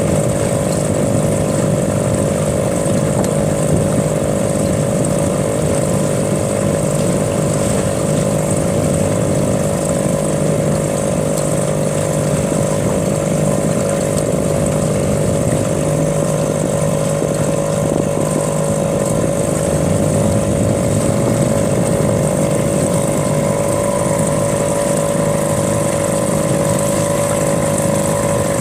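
A small boat's motor running at a steady speed, with an even drone and a constant high whine and no change in pitch.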